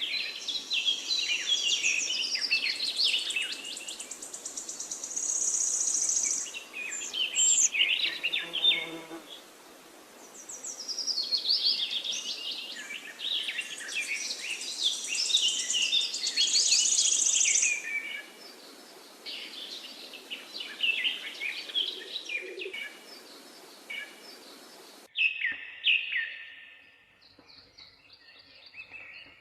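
Many songbirds chirping and singing at once in a dense, overlapping chorus of quick high chirps and trills over a steady hiss. About 25 s in, the sound changes abruptly to a quieter background with a few scattered chirps.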